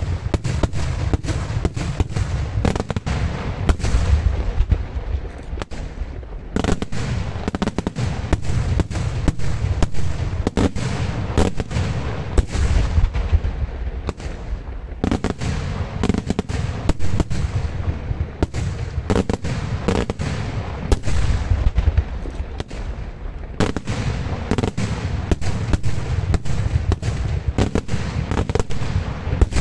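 Daylight fireworks: aerial shells bursting overhead in a dense, continuous barrage of sharp bangs, several a second, over deep booming.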